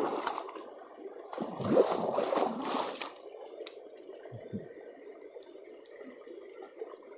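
Water splashing and sloshing in a shallow stream as feet are washed, strongest for a couple of seconds about a second in, then dying back to the faint steady sound of the flowing stream with a few small clicks.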